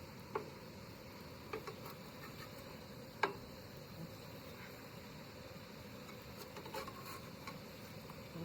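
Turkey kielbasa sizzling on a camp grill: a steady low hiss with a few scattered sharp pops and crackles, the loudest about three seconds in.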